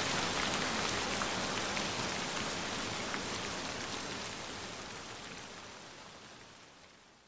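Gentle rain falling, with a few separate drops standing out, fading out steadily over the last few seconds.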